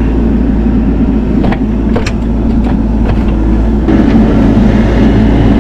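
Bobcat E42 mini excavator's diesel engine running hard under load while it pushes a large tree, with a few sharp knocks in the first two seconds. The engine gets louder a little under four seconds in as the load builds.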